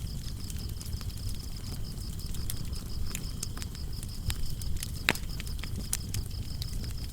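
Wood fire crackling, with scattered sharp pops and a low rumble of flames; one louder pop comes about five seconds in. Behind it, crickets chirp in a steady, fast, high-pitched trill.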